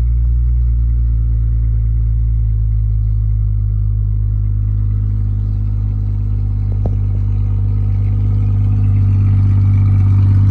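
Car engine idling steadily on a cold start in freezing weather, with a light click about seven seconds in.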